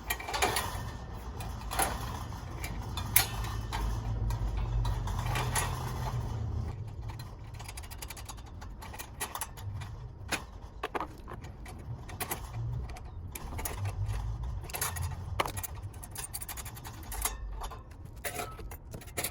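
Scattered metal clicks, knocks and rattles of a steel parrot cage being handled as its feeders are taken out, over a low rumble.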